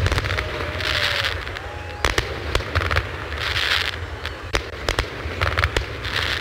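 Fireworks display: shells bursting with a string of sharp bangs, mixed with short bursts of hissing crackle.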